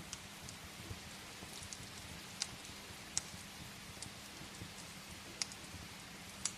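Steady rain hiss with a wood fire crackling in the fireplace: scattered sharp pops, a few of them loud.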